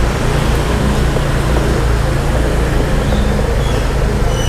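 Steady hum of a car's engine and road noise, heard from inside a car moving slowly in heavy traffic.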